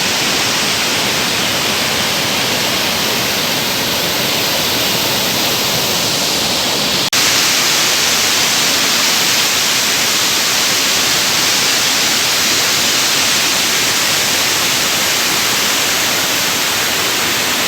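Salto Cavalcanti waterfall on the Rio das Cinzas: loud, steady rush of falling water, broken once by a momentary dropout about seven seconds in.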